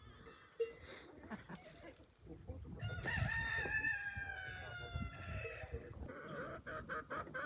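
A rooster crowing once: one long call of nearly three seconds, starting about three seconds in, that slides down in pitch toward its end.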